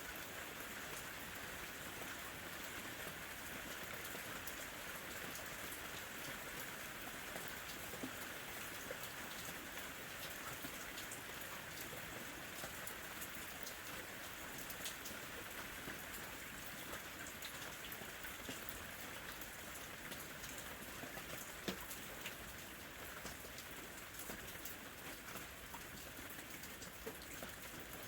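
Gentle rain falling steadily, with many separate drops ticking on a surface.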